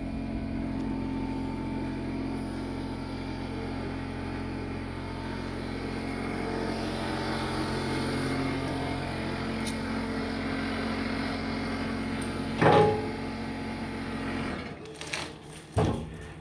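An engine or motor running steadily, with a loud knock about three-quarters of the way through; the motor cuts off near the end, followed by a few knocks.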